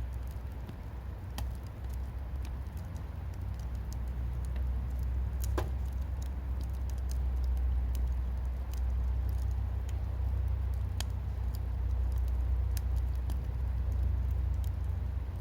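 Firewood burning in a wood grill, crackling with scattered sharp pops, one longer pop about five and a half seconds in, over a steady low rumble.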